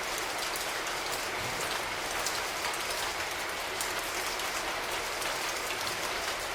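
Water running steadily from a tap and splashing down, with a fine patter of drops.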